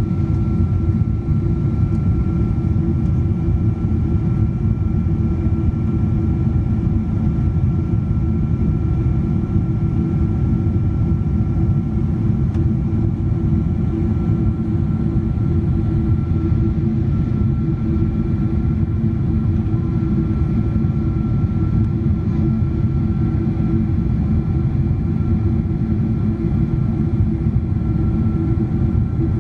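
Steady jet engine noise of a Boeing 777-200ER with Pratt & Whitney PW4090 engines, heard from inside the cabin in flight: a deep, even rumble with a few constant hums on top.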